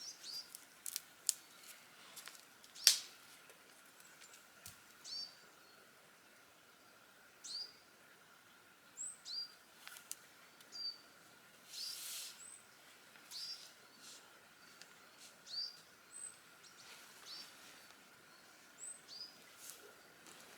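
Small birds calling: short, high, hooked chirps repeated every second or so, mixed with a few sharp clicks, the loudest about three seconds in. A faint steady high tone runs underneath.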